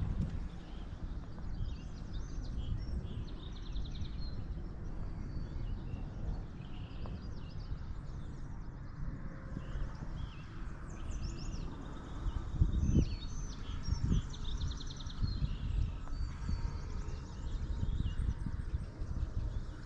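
Small birds chirping and trilling on and off throughout, over a steady low rumble, with a couple of low thumps about two thirds of the way in.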